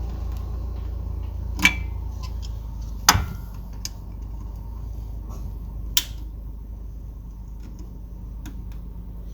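Sharp clicks and knocks of pliers working at a metal hose clamp, three loud ones spread over several seconds among fainter ticks, over a low steady rumble.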